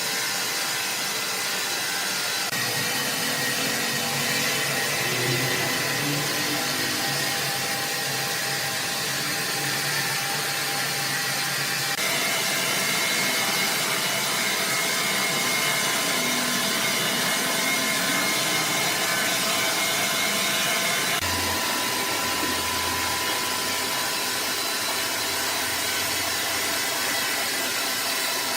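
Sawmill machinery running: a steady, dense whir with faint high whines over it. The mix shifts abruptly a few times, about halfway through and again near three-quarters of the way.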